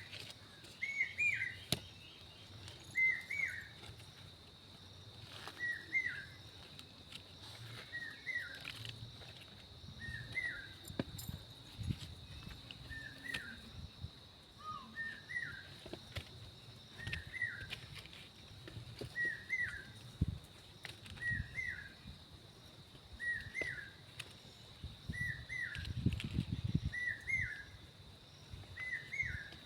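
A bird calling over and over, a short chirp repeated about every second and a half, over a steady high-pitched hum. Soft rustling and a few knocks come in near the end.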